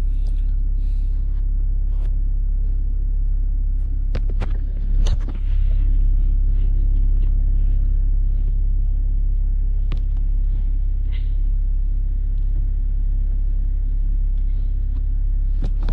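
BMW 5 Series diesel engine idling steadily with a low rumble, with a few sharp clicks over it around the middle.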